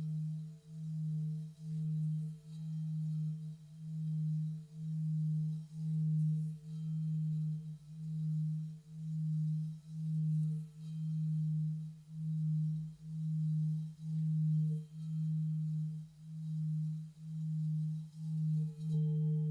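Tibetan singing bowl sounding a steady, low sustained tone that swells and fades about once a second, with a fainter higher overtone that comes in louder near the end.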